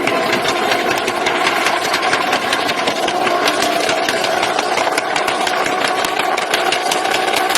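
Tuned turbocharged car engine held at a steady rev, with a fast, continuous crackle of small pops from the exhaust.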